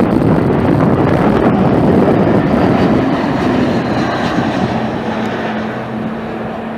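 Jet airliner's engines roaring close by as it passes, the roar easing off over the last few seconds while a thin steady whine comes through. The sound ends abruptly.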